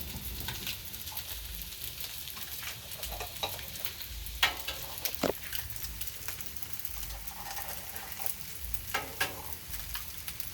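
Fried rice sizzling on a Blackstone flat-top griddle, with a few sharp clicks and knocks near the middle and again near the end.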